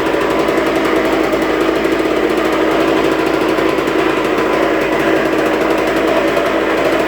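2003 Suzuki RM125 two-stroke single-cylinder engine running at a steady speed, with the grinding noise that the owner is trying to show.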